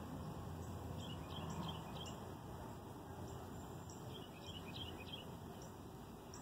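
Small birds chirping in short, high, scattered calls over a steady low rumble of outdoor background noise.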